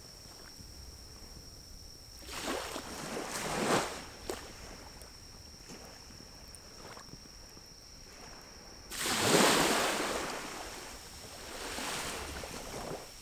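Small pine-cone fire in a wood-burning camp stove crackling with a few sharp pops, under three whooshing swells of rushing air, the loudest about nine seconds in.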